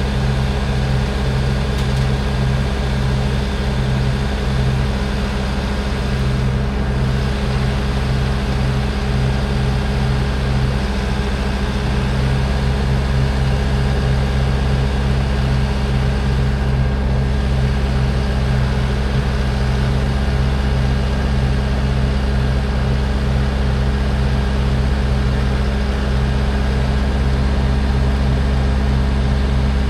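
Heavy engine running steadily at a constant speed, a low even drone that does not rise or fall.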